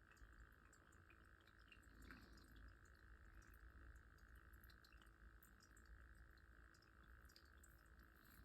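Near silence: faint room tone with a steady hiss and a few scattered faint ticks.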